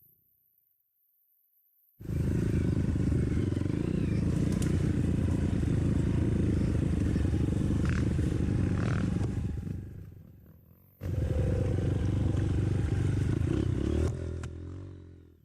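Trail motorcycle engine running, in two stretches: it starts abruptly about two seconds in and fades away near ten seconds, then starts abruptly again a second later and fades out near the end.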